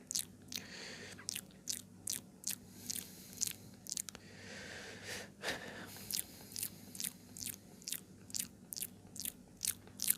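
Close-miked ASMR mouth sounds: sharp, wet clicks and smacks of lips and tongue, about two to three a second, with a longer breathy hiss about halfway through.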